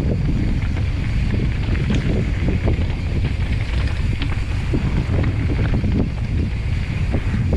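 Wind buffeting the microphone of a camera on a mountain bike ridden fast downhill, over the tyres rolling on rough dirt trail and many small knocks and rattles from the bike and its chain.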